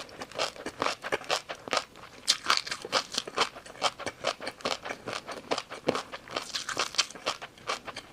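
Close-up eating sounds: crunchy food being bitten and chewed, a dense, irregular run of crisp crunches, several a second.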